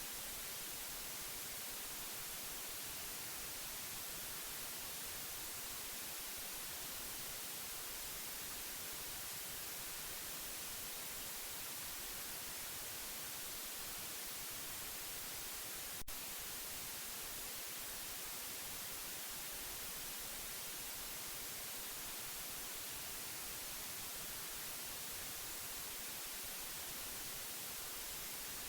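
Steady white noise, an even hiss with no change in level, with one brief click about halfway through.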